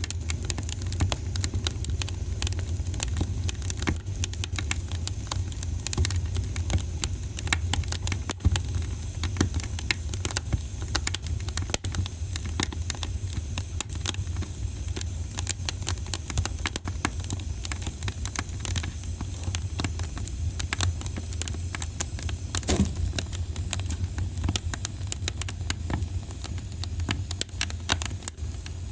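Wood fire burning in a fireplace: a steady low rumble of the flames with dense, irregular crackles and pops, one louder pop about 23 seconds in.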